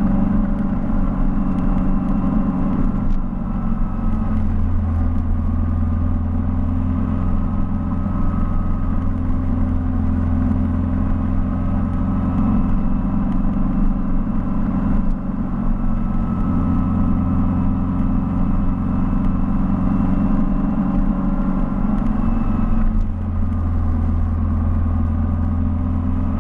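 Mini car engine running under way, a steady low drone whose pitch shifts and briefly dips about three seconds in, around the middle and again near the end.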